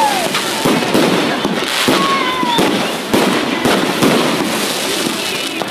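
Fireworks and firecrackers going off, a dense crackle of many sharp bangs in quick succession, with a whistling tone that rises and falls about two seconds in.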